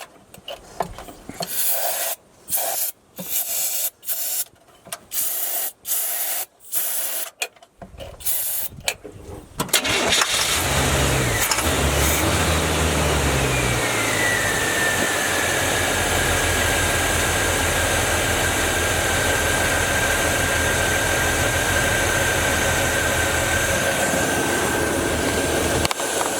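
Carbureted truck engine cranking in uneven bursts, about two a second, for roughly ten seconds. It then catches and runs steadily on starting fluid poured into the carburetor, since it is not getting fuel on its own. A high whine drops in pitch as the engine settles, then holds steady.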